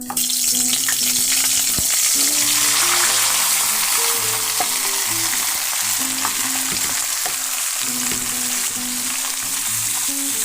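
Beef intestines and liver frying in hot oil: a loud, steady sizzle that starts suddenly as they go into the pan, with a few light knocks. Soft background music plays underneath.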